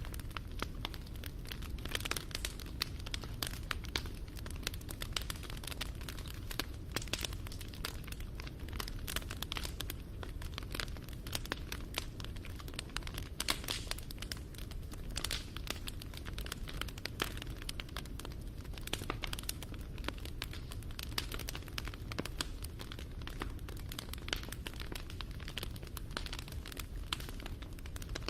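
Wood fire crackling: many small, irregular pops and snaps over a low, steady rumble.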